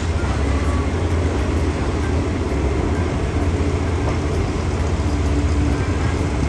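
Moving passenger train heard from aboard: a steady, loud, deep rumble of the carriage running along the rails. A faint steady hum comes in about five seconds in.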